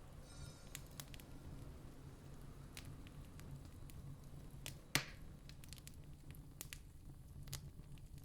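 Campfire crackling: scattered sharp pops and snaps, with one loud pop about five seconds in, over a low steady rumble.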